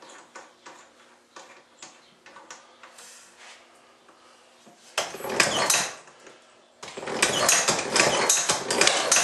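Antique Iron Horse small engine being cranked over by its kickstarter after a few light clicks: a short burst of clattering about five seconds in, then a longer rapid clattering run from about seven seconds on. The owner suspects weak spark.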